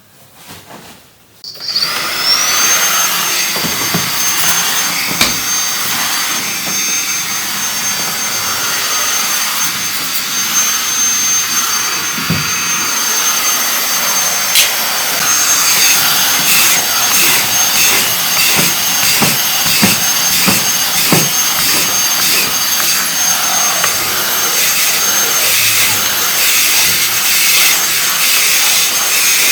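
A vacuum cleaner is switched on about two seconds in. Its motor whine rises briefly as it spins up, then holds steady under a loud rush of air, with occasional knocks.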